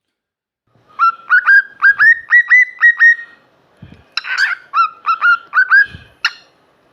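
Male cockatiel crowing: two runs of short, loud whistled notes, each note hooking upward in pitch, broken about four seconds in by one harsher, rougher call.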